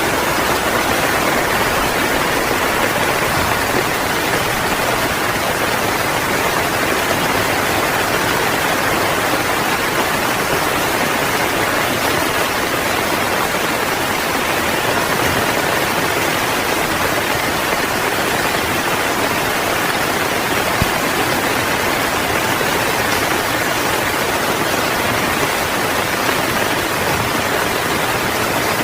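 Heavy rain falling steadily, a dense, even hiss of rain on a tent.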